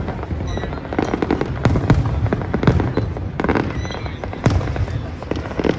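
Aerial fireworks going off in quick succession: a dense run of bangs and crackles over a low rumble, with a few sharper reports standing out.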